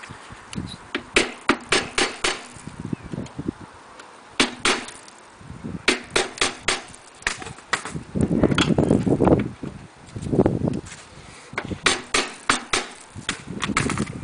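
A run of sharp, irregular clicks and knocks, several a second in bunches, from metal hand tools and car parts being handled during radiator and fan work; a duller rumbling noise comes in about eight seconds in.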